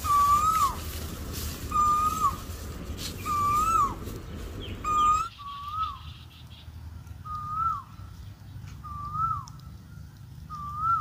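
A bird repeating a short whistled call, a held note that drops sharply at its end, about every one and a half seconds. A low rustling background falls away about halfway through.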